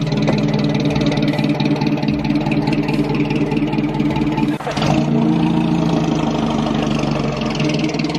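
Car engine running loudly at steady revs, dipping briefly about four and a half seconds in before settling back to the same steady note.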